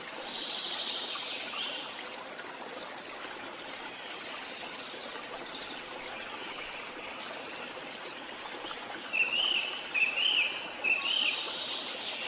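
Running water with birds singing over it. A bird chirps in the first couple of seconds, and about nine seconds in a bird gives three quick warbled phrases, the loudest sounds here.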